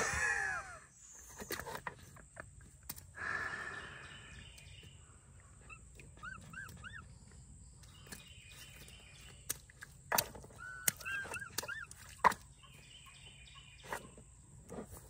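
Birds calling: a quick cluster of calls at the start, then two groups of three or four short rising-and-falling chirps later on, over a steady high-pitched hum and scattered clicks.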